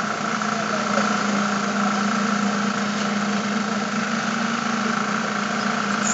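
Engine of concrete-pouring machinery running steadily with an even hum.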